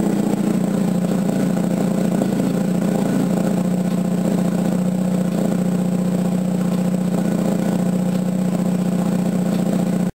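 Mazda 12A two-rotor rotary engine idling steadily from a dead-cold start.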